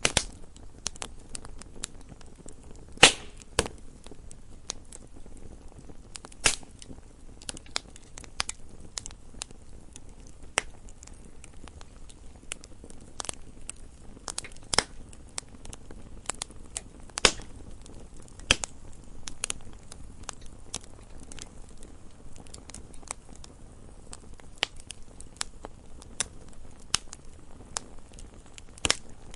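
Campfire crackling: irregular sharp pops and snaps of burning wood over a low steady hiss, with a louder pop about three seconds in.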